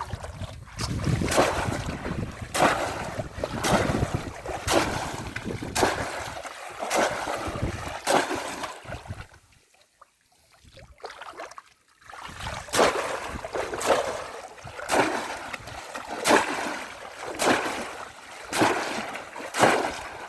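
Repeated splashes of polo bamboo basket traps being plunged into shallow water, about one a second, with a pause of a few seconds midway.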